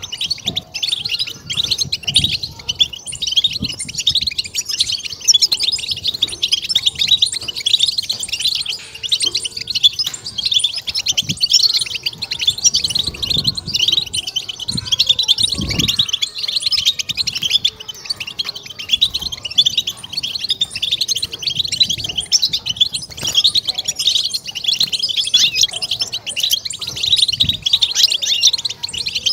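European goldfinch singing a fast, unbroken twittering song of rapid chirps and trills.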